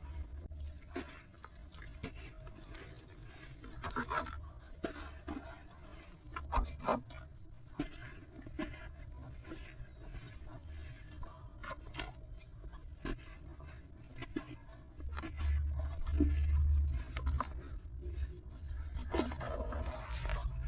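Material crumbling and being crushed: irregular small crackles, crunches and scrapes, over a low rumble that swells for a couple of seconds in the latter half.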